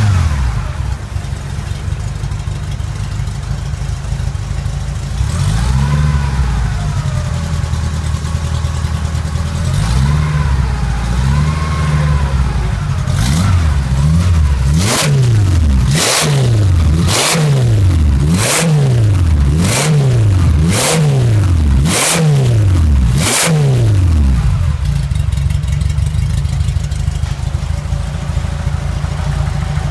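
Porsche 356's Polopolus 2.4-litre air-cooled flat-four engine idling, revved twice slowly and then blipped quickly about nine times, roughly once a second, with a sharp crack at the start of each blip, before settling back to a steady idle.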